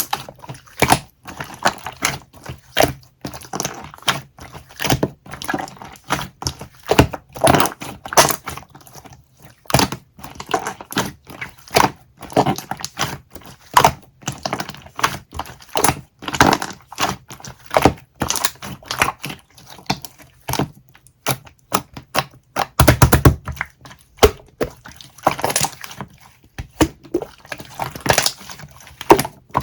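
Dense, irregular clicking and crackling close to the microphone, with a heavier low thump about 23 seconds in.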